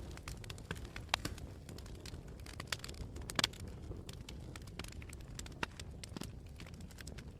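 Campfire burning: wood crackling with irregular sharp pops and snaps over a low steady rumble, the loudest pops about one and three and a half seconds in.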